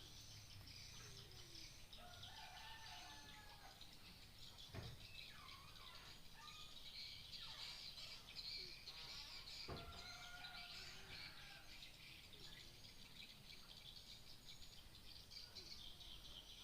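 Faint chirps and short gliding bird calls over a steady high-pitched insect-like drone, with two sharp clicks, about five and ten seconds in.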